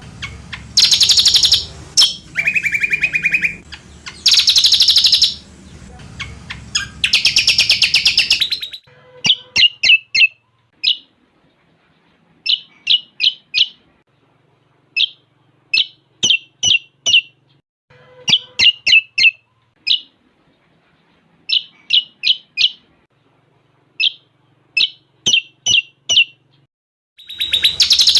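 Cucak combok songbird singing, its song filled in with cililin-style phrases. It gives loud buzzy trilled phrases about a second long for the first eight seconds, then a run of short sharp chirps in quick groups of three to five notes, and the loud trills come back near the end.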